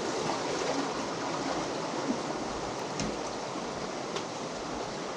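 Flowing water rushing steadily, an even hiss with no change.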